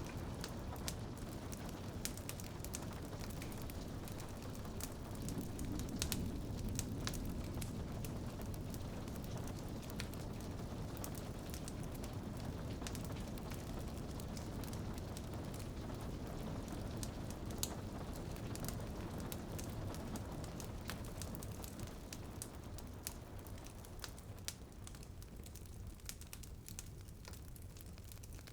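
Wood fire crackling with frequent sharp pops over a steady low rush of rain. The rushing eases and grows quieter near the end, leaving the crackles more exposed.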